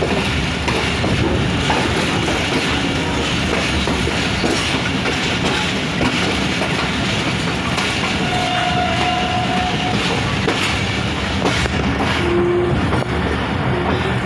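Passenger coach of a diesel-hauled express train running slowly on the track, heard from its open doorway: a steady rumble of wheels on rails with clickety-clack. A couple of brief faint whistling tones come about halfway through and again near the end.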